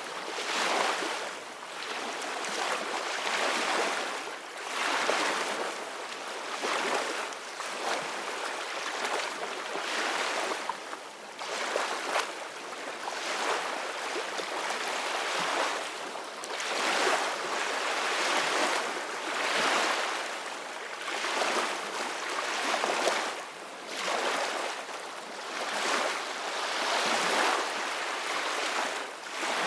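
Ocean waves washing in: a continuous rushing hiss that swells and eases every few seconds.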